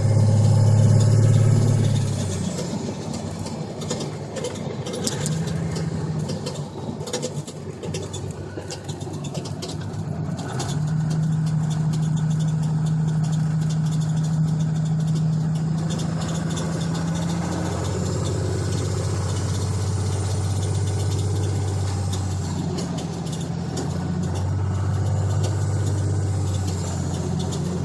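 Truck engine running, its speed stepping up and down several times between idle and raised revs, with a faint high whine that rises and falls with it. A scatter of clicks sounds over the first ten seconds or so.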